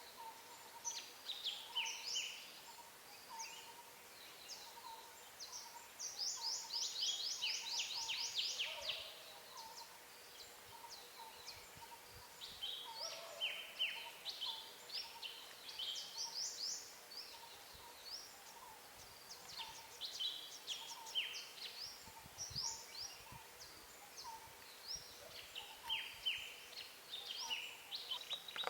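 Several wild birds singing at once: bursts of quick, high whistled notes that sweep down in pitch, with a dense run of them from about six to nine seconds in. Under them a short, lower note repeats about once a second.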